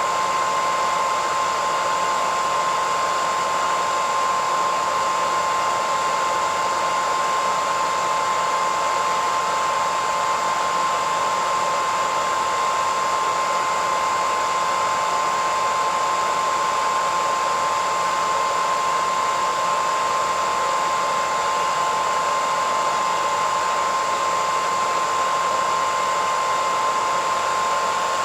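Hairdryer running steadily: a constant rush of air with a steady whine from the motor.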